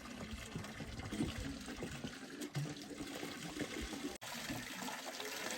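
Water running and trickling steadily, with a momentary break about four seconds in.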